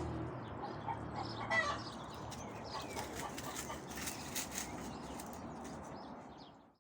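Hens clucking in short, repeated calls, with a few sharp clicks about three to four and a half seconds in; the sound fades out at the end.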